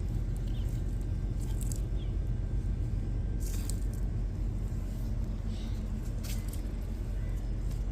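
A steady low rumble, with a few brief, light, higher-pitched noises scattered through it.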